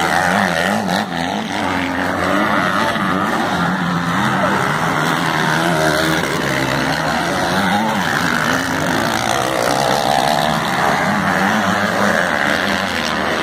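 Several racing motorcycle engines revving up and down as the bikes race, their pitch rising and falling throughout.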